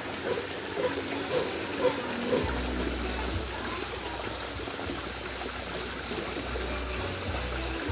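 Water running steadily, as in a small stream or channel, with a low steady rumble joining in about two and a half seconds in.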